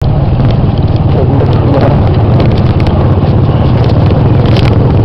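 A motor vehicle's engine running steadily with a loud low rumble, with light rattling clicks over it.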